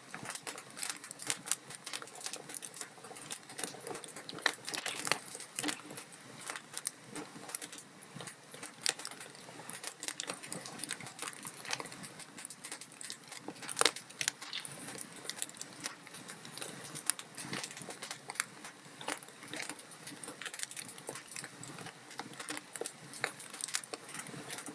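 Log fire crackling in a fireplace: a steady stream of irregular pops and snaps from burning wood, with a few sharper pops standing out, one of the loudest about 14 seconds in.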